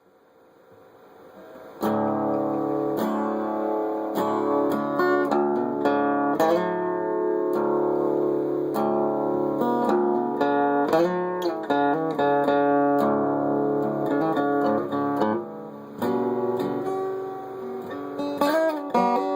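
Acoustic guitar playing the instrumental introduction of the song, faint at first and then coming in fully about two seconds in.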